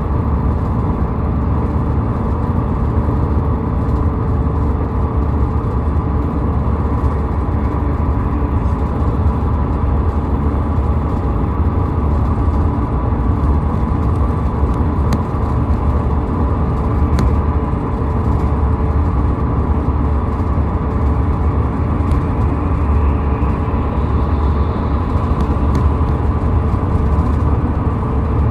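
Steady road and engine noise of a car driving on a highway: a continuous low rumble with a steady hum, neither rising nor falling.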